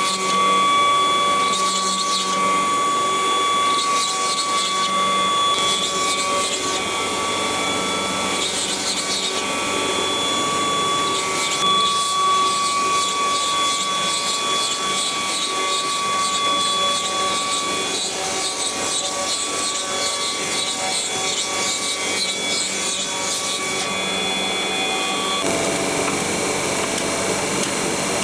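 CNC wood router carving: a steady high spindle whine, with bursts of cutting noise coming and going as the bit works through the wood.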